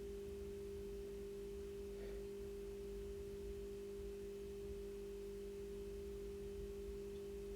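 A steady, constant hum made of two pure tones, one low and one about an octave above, with nothing else happening.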